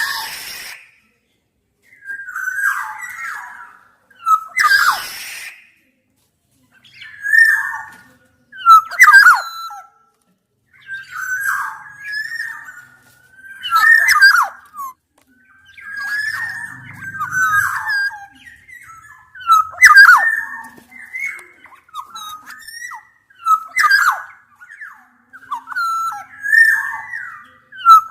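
Black-naped orioles (kepodang) calling: fluting whistled phrases with falling slurs, repeated every second or two, from several birds mixed together. There are a couple of harsh rasping notes in the first few seconds.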